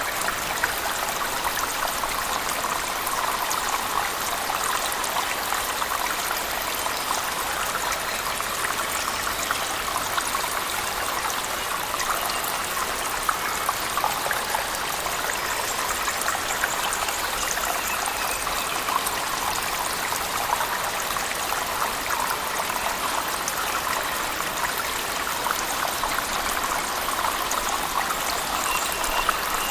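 Waterfall splashing and trickling inside a cave, mixed with heavy rain: a steady rush of water with many small drips and splashes.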